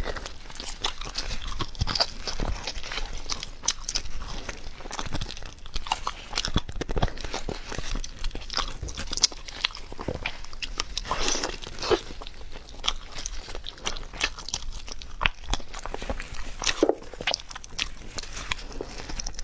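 Close-up biting and chewing of braised pork knuckle, with many irregular crunchy clicks and smacks of the mouth on the meat and skin.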